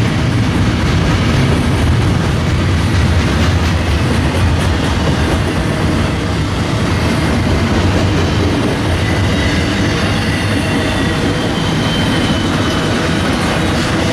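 A train rolling past: railroad cars running along the track with steady, loud wheel-on-rail noise, strongest low down, that does not let up.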